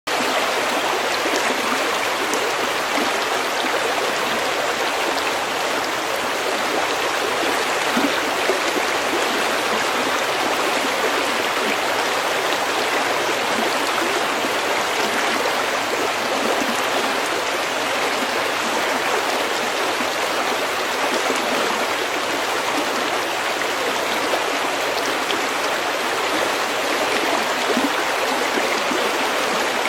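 A brook flowing over pebbles, with a steady, even rush of water that does not change.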